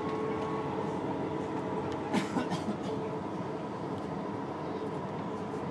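Former Frankfurt tram running on rails: a steady rolling noise with a faint motor whine, and a quick run of sharp clicks about two seconds in.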